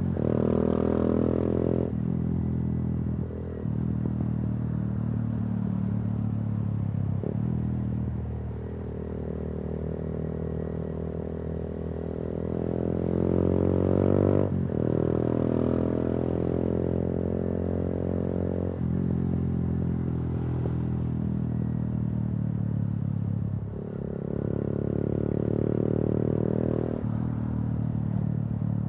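Yamaha YBR 125G's single-cylinder four-stroke engine, through an Akrapovic exhaust, pulling the bike along. Its pitch climbs under throttle and drops abruptly at each gear change or throttle lift, several times over.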